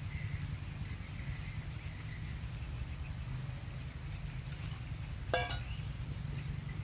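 Steady low rumble of wind and rain, with one short animal call about five seconds in.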